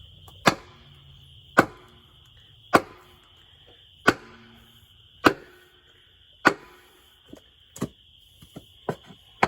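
Repeated hammer blows, about one a second, six hard strikes and then a few lighter taps near the end, each with a short metallic ring. They are being used to break the cylinder head of a seized Case 188D diesel engine loose from the block.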